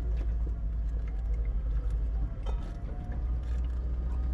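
Car driving on a dirt road, heard from inside the cabin: a steady low road rumble with scattered small ticks, typical of gravel under the tyres.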